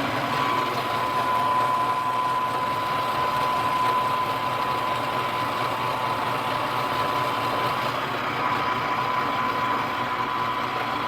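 Milling machine spindle running steadily with a carbide end mill: a steady whine over a low motor hum.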